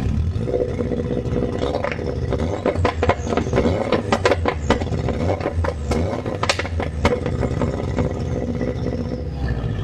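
2006 Subaru WRX's EJ25 flat-four engine running steadily through an exhaust cut-out valve, with a run of sharp crackles in the middle.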